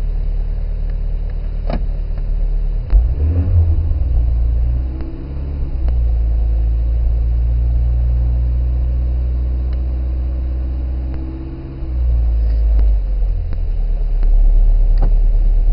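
Volkswagen Golf III engine idling just after a cold start, its idle held a little high because the engine is still cold. About three seconds in the engine note shifts briefly, then settles into a steady idle.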